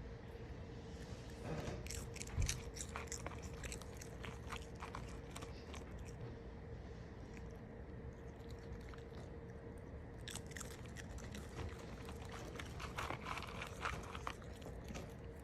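Crunchy chewing, as of an animal eating crisp food: irregular clusters of sharp crunches, busiest near the start and again towards the end, over a faint steady hum.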